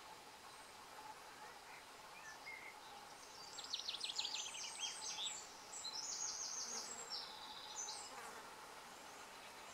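A small bird singing a quick, high-pitched phrase of rapid trilled notes, lasting about four seconds and starting about a third of the way in, over a faint steady hum.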